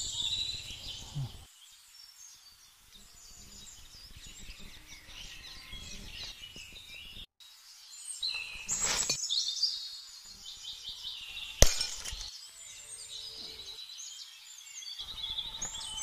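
Birds chirping and singing, with a single sharp click or snap about three-quarters of the way through.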